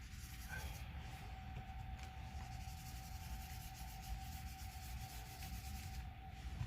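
A colouring tool rubbing back and forth on paper as the sky is filled in with colour, under a faint steady hum.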